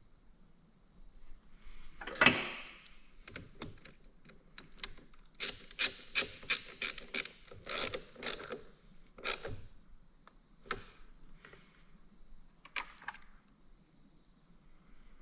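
Hand work on metal and plastic parts: a knock about two seconds in, then a quick run of sharp clicks and light knocks, with a few more later.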